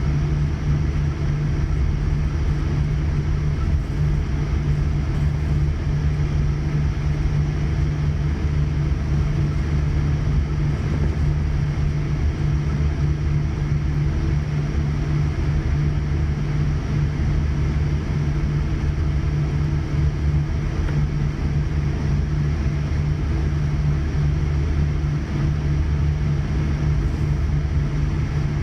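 Steady low hum and rumble inside the cabin of a Boeing 787-9 on the ground, taxiing before takeoff.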